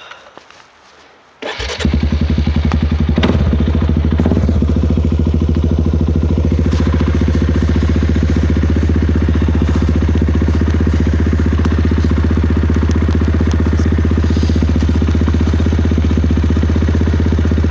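Suzuki KingQuad 400 ATV's single-cylinder four-stroke engine starts about a second and a half in, then runs loud and steady through its HMF Penland aftermarket exhaust.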